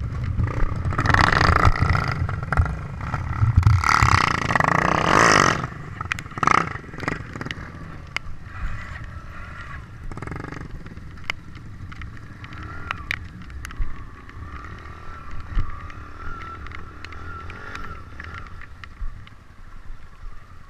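Trail motorcycle engine running, loud for the first five seconds or so and then settling lower, with scattered clicks and rattles.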